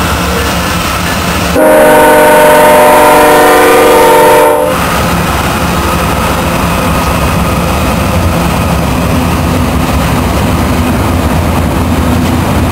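BNSF diesel locomotives passing close by, sounding one long multi-tone horn blast about two seconds in that lasts about three seconds. Before and after it, the steady rumble of the locomotives and the double-stack container train rolling past.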